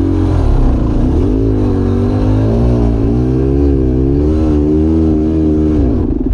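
Dirt bike engine revving up and down unevenly, its pitch wavering as the throttle is worked, then cutting off suddenly near the end.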